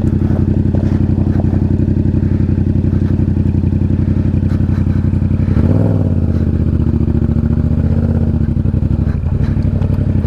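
Motorcycle engine running steadily under low-speed load while climbing a steep gravel hill. About halfway through, the engine note briefly rises and dips with a throttle change, then settles into a steady note again.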